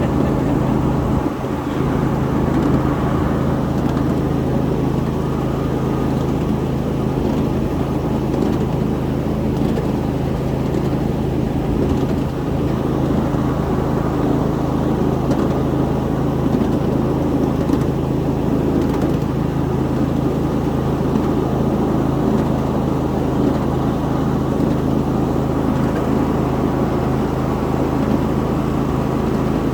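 Ride-on 7.5-inch gauge miniature train running steadily: a constant mechanical hum with wheel and track noise.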